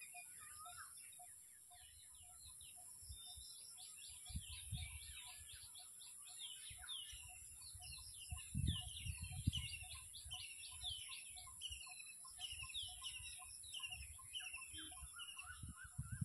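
Small birds chirping busily, many quick falling chirps overlapping, over a steady high hiss and a soft note repeating about twice a second. A few low thumps come through, the loudest a little past halfway.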